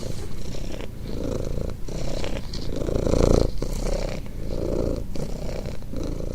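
Domestic cat purring close up, the purr swelling and easing with each breath, about once a second.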